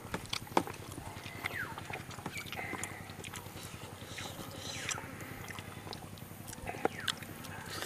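Close-up wet chewing and lip-smacking of a mouthful of chicken and rice, full of sharp clicks and short squelchy smacks.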